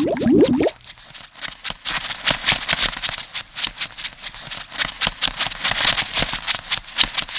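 Crab sound effect: a quick bubbling run that stops under a second in, then a fast, irregular clatter of dry clicks.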